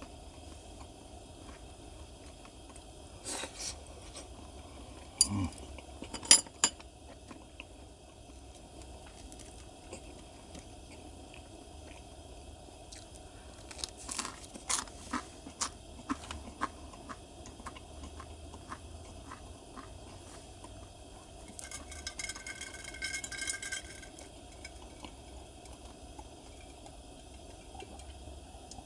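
Tableware being handled while eating: scattered clinks and clatters of utensils against dishes. There is a busier run of clattering with some ringing near the end.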